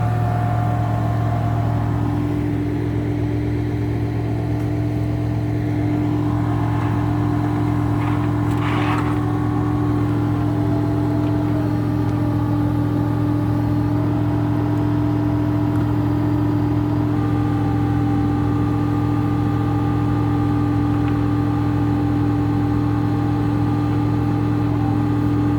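Tow truck's engine running steadily with an even hum, while fainter higher tones step up and down in pitch. A short hissing or scraping sound about nine seconds in.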